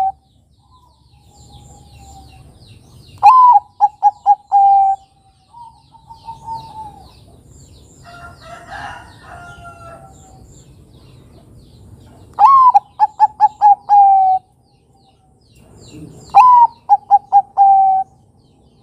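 Bangkok-type zebra dove (perkutut) cooing: three loud song phrases, each opening on a high note and running into a quick string of short coos that ends on a longer held note. Fainter calls sound in the gaps between phrases.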